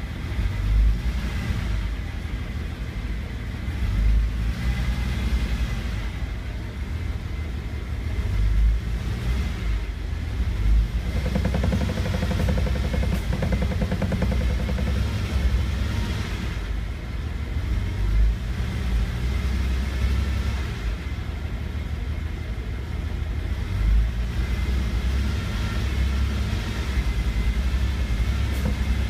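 Nissan Cedric 330 running, heard from the cabin: a steady low rumble with an abnormal noise from the dashboard, including a rapid buzz for a few seconds about halfway through.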